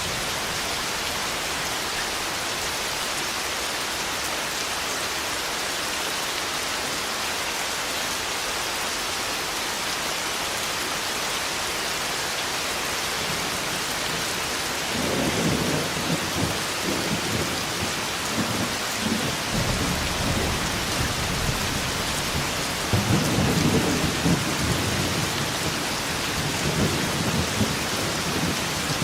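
Heavy rain falling steadily, with rolling thunder rumbling in about halfway through and again, louder, a few seconds before the end.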